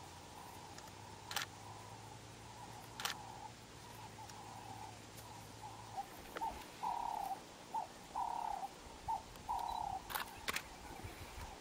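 A bird calling: a run of short, even-pitched hooting notes in the second half, over a faint low hum that stops about halfway through. A few sharp clicks are scattered through.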